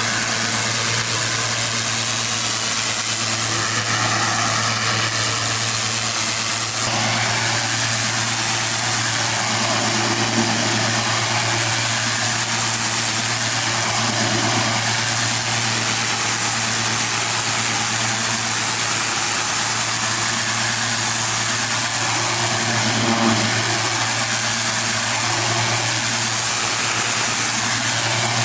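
Pressure washer's engine running steadily, with a constant hiss over a low, even hum.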